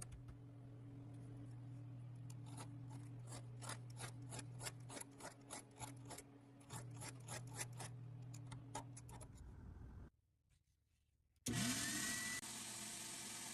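Hand-tool scraping or rubbing strokes on a workpiece, a few a second and uneven, over a steady low hum. After a short silence a motor starts, whining up in pitch, then runs with a steady hiss.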